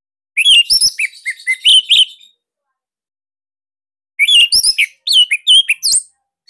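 Orange-headed thrush (anis merah) singing: two quick phrases of sharp, rapid chirping notes, each about two seconds long, the second starting about two seconds after the first ends.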